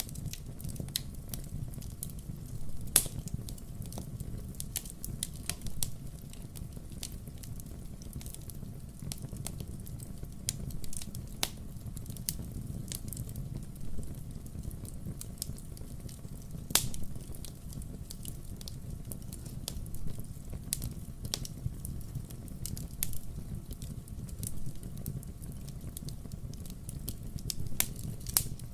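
Wood fire crackling: irregular sharp pops and snaps over a low, steady rumble, with the loudest pops about 3 and 17 seconds in.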